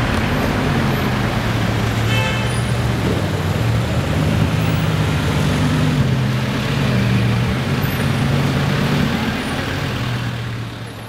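Bugatti Veyron's 8.0-litre quad-turbocharged W16 engine running as the car pulls away and drives off slowly in traffic: a low engine note that rises and falls in pitch with the throttle and fades near the end.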